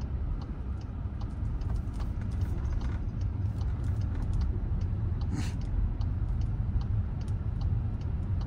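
Steady road and tyre rumble inside the cabin of a 2024 Volkswagen Atlas driving on a snow-covered, partly unplowed road, with scattered faint clicks. There is a brief hiss about five seconds in.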